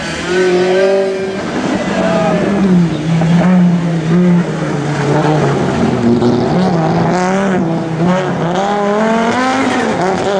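Rally car engine running hard, its pitch dropping and holding fairly steady for several seconds, then climbing steadily near the end as it accelerates.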